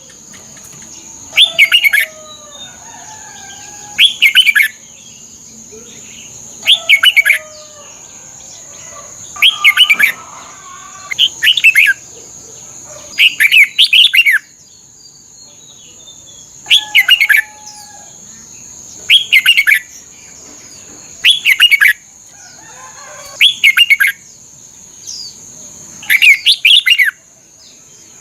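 Red-whiskered bulbul singing short, bright phrases of a few rapid whistled notes, repeated about every two to three seconds. Softer, lower warbling comes between the phrases, and a steady high whine runs underneath.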